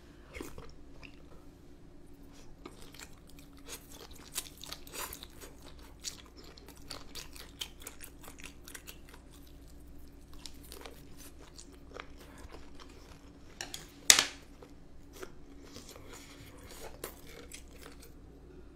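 Close-miked chewing and biting through a mouthful of spicy boneless chicken feet, with many small wet clicks and smacks. One sharp, louder click comes about 14 seconds in.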